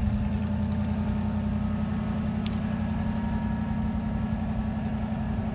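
Farm vehicle engine running steadily at constant speed, a low even hum with no change in pitch.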